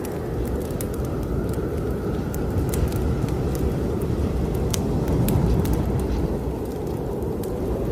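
Snowstorm wind blowing hard, a deep rumble with a faint howl that drifts slowly in pitch, over the sharp pops and crackles of a wood fire burning in a fireplace.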